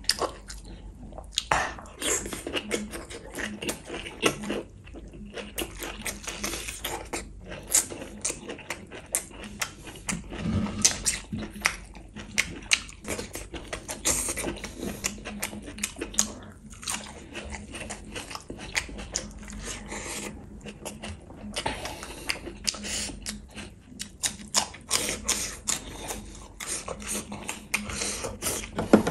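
A person chewing and biting into curried meat eaten by hand, a dense run of quick, irregular smacks and clicks with now and then a crunch.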